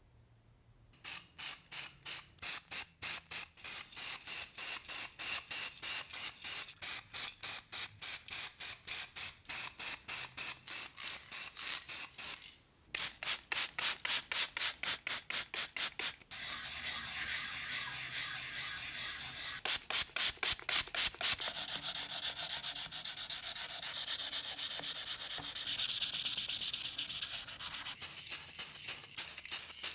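Hand sanding: rapid back-and-forth rubbing strokes, about four or five a second. About halfway through they merge into a steadier continuous rasp, and separate strokes return near the end.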